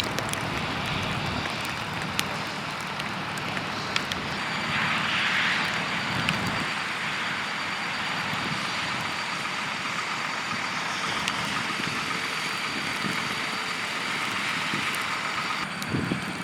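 Vehicle traffic passing on a snowy, slushy road: a steady hiss of tyres and engines that swells once, about five seconds in, as a vehicle goes by.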